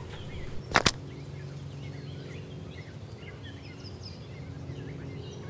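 Two sharp knocks in quick succession about a second in, then faint scattered birdsong chirps over a low steady hum.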